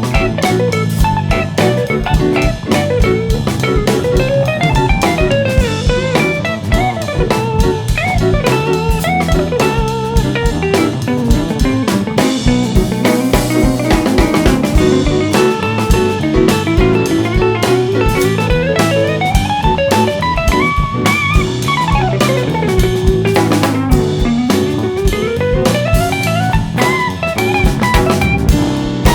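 A live jazz-fusion band playing: a drum kit keeps a busy beat under an electric guitar solo whose melody winds up and down in runs and slides.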